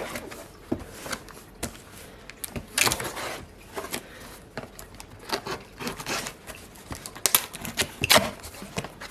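Cardboard box of a portable camping toilet being handled: irregular taps, knocks and scraping rustles of cardboard, with a longer rustle about three seconds in and a couple of sharper knocks near the end.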